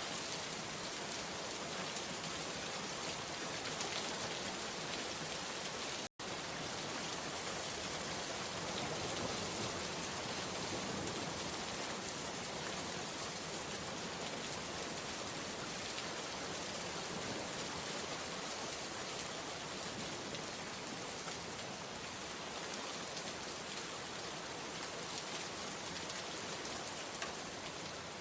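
Steady rain falling, an even hiss of many drops. The sound cuts out for a split second about six seconds in, then resumes unchanged.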